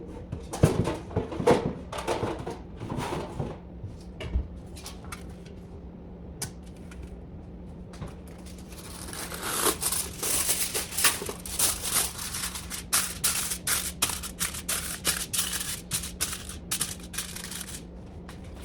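Kitchen prep sounds while bacon is readied for the oven: a few light knocks and handling clatters, then, about halfway in, some ten seconds of dense crinkling and rustling of wrapping material, with a faint steady hum underneath.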